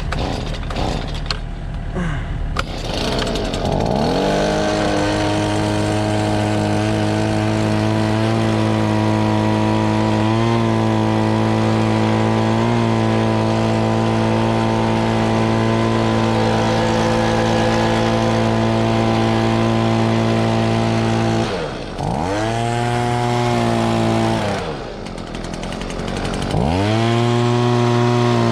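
Gas leaf blower being pull-started, catching about three seconds in and rising to a steady high-throttle run. Near the end the throttle is let off twice, the engine dropping briefly toward idle before revving back up.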